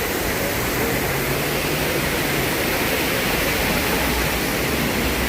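Falling water rushing steadily, a constant even roar of a cascade or fountain.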